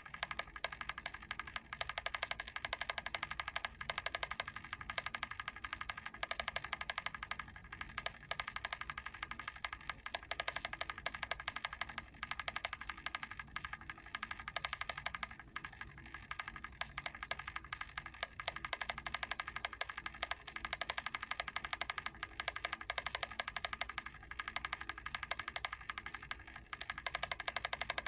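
Mechanical timer clicking in a rapid, even run of small ticks.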